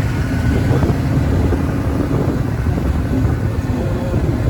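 Car engine and road noise heard from inside the moving car's cabin, a steady low rumble.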